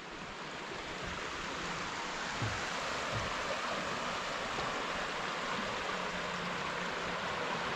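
Wild Creek's water rushing steadily, a constant hiss with no breaks.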